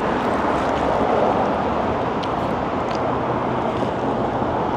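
Steady roar of road traffic, an even noise with no distinct events.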